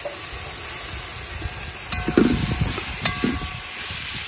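Corn and seasonings sizzling with a steady hiss in a large metal pot over a wood fire. The corn is stirred with a metal spoon, giving scraping sounds and two ringing metal clinks against the pot about two and three seconds in.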